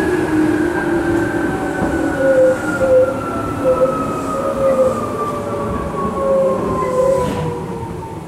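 Tokyu 8500 series electric train heard from inside the car: the traction motors and gears whine in a pitch that falls steadily as the train slows, over the rumble of wheels on the rails. A few short squeals come and go midway.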